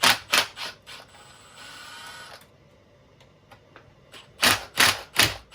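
Sharp metallic clicks from hand tools working on a car differential, in two quick bunches of three or four, one at the start and one near the end, with a brief quieter mechanical rattle in between.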